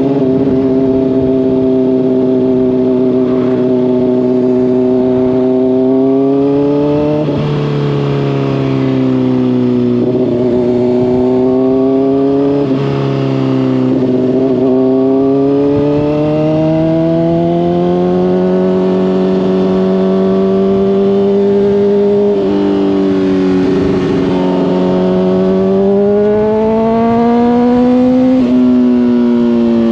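Honda CBR600RR inline-four running through a Hotbodies Stinger slip-on exhaust while riding. The engine note rises and falls with the throttle, and its pitch changes suddenly a few times as the rider shifts gears.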